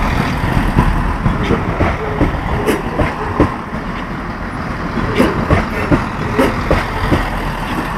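Train moving through the station: a steady rumble with irregular clanks and knocks, a few a second.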